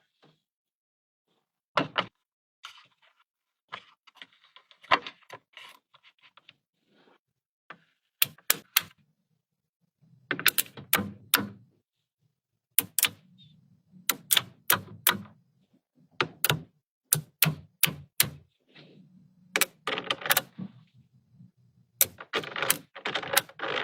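Small magnets snapping together with sharp clicks, often in quick runs of two to four, with handling noise between the snaps.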